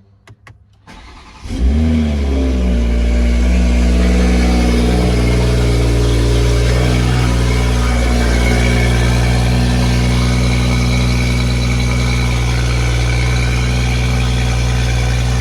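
Toyota Supra engine with an aftermarket catted downpipe, chargepipe and cold air intake, cold-started in sport mode: a few light clicks, then it fires about a second and a half in with a brief rev flare and settles into a steady cold idle.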